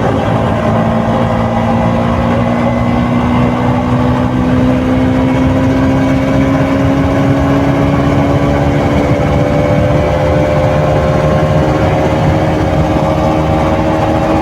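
KTM RC 200 motorcycle's single-cylinder engine heard through its stock exhaust while riding, the revs rising slowly and steadily under a light pull.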